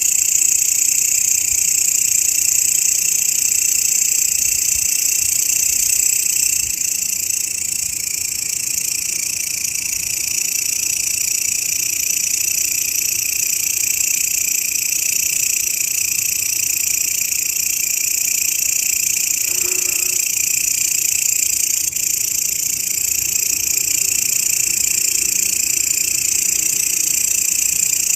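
Grasshoppers stridulating: a continuous, even, high-pitched buzz made of several steady layers of pitch, with no break.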